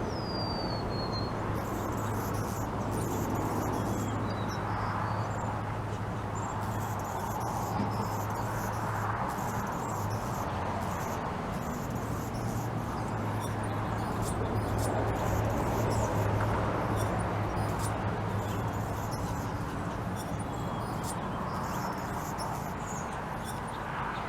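Small birds chirping and twittering in clusters of short, high notes, with one falling whistle right at the start. Under them run a steady low hum and a continuous background rush.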